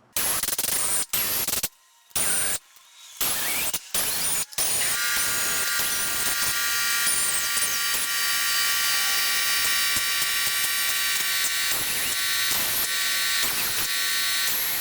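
Several short bursts of an air ratchet running 10 mm bolts down, then about five seconds in the shop's air compressor kicks on and runs with a steady motor hum.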